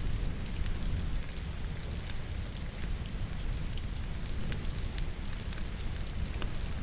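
Wood crackling and popping in a fireplace over steady rain, with a low rumble of the fire underneath.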